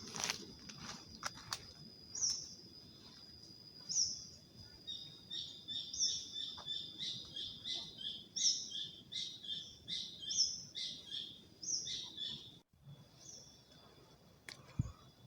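Forest birds calling: a short, high falling call repeated about every two seconds, with a run of rapid chirping in the middle, over a steady high insect-like drone that cuts off near the end.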